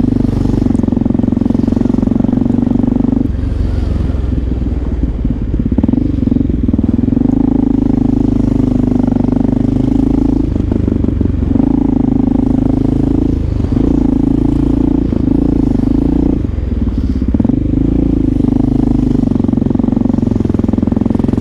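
Motorcycle engine running while riding in traffic, its note holding steady with brief breaks and shifts every few seconds as the throttle changes.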